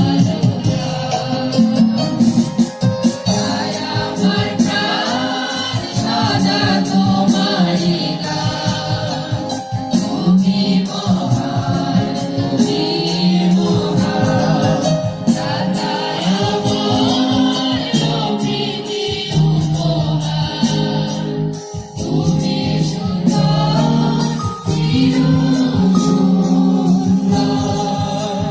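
A choir singing a gospel hymn with a steady percussion beat, likely tambourine, keeping time.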